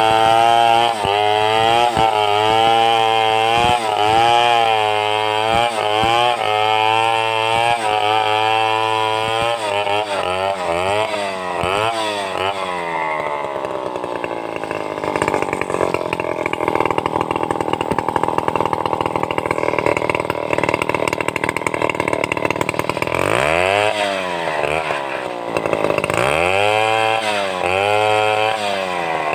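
Two-stroke chainsaw running while ripping a log into boards. Its pitch wavers at first, then drops and holds lower under load in the cut for several seconds. Near the end it is revved up and down several times.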